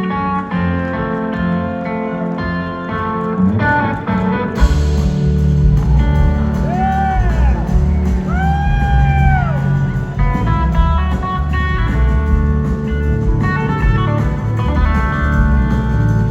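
Live blues-rock band playing. Guitar notes ring out over a lighter backing until the full band with bass and drums comes in strongly about four and a half seconds in. A little later come two long gliding guitar phrases that bend up and back down.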